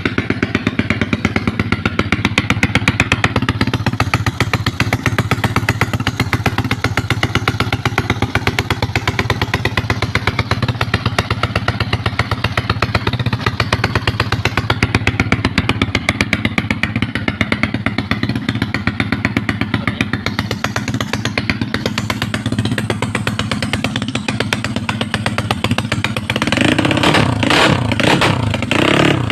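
Motorcycle engine idling through a full titanium open-pipe exhaust, a rapid, even pulsing rumble at idle. Over the last few seconds the throttle is blipped several times and the exhaust note rises and gets louder.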